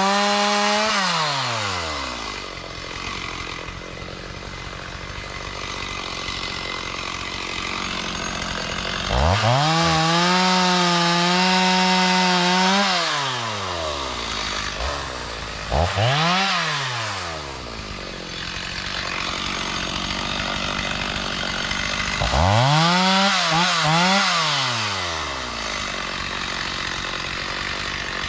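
Chainsaw revved to full speed four times, held longest for about four seconds near the middle, and dropping back to idle in between. The last run wavers in pitch.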